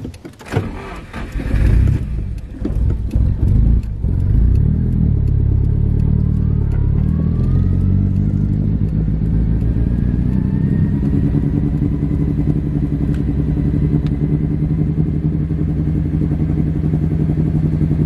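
Nissan Silvia S15's turbocharged SR20DET four-cylinder engine heard from inside the cabin while driving, running with a massive boost leak after the blow-off valve blanking plug shot out. A loud hissing rush comes in the first two seconds, then the engine revs up and settles into a steady drone.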